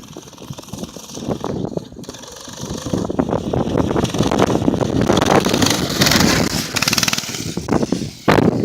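Baja mini bike's small engine revving hard as the bike accelerates, growing louder through the middle seconds. A sudden loud knock comes near the end.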